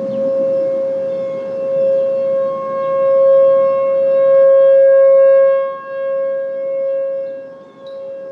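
Outdoor civil-defense warning siren sounding a steady full-alert tone, swelling and fading in loudness as the siren head rotates. It is loudest midway and dips briefly twice near the end.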